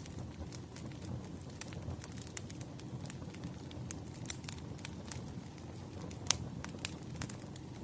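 Campfire crackling: irregular sharp pops and snaps over a steady low rumble of burning flames, with one louder pop a little past six seconds in.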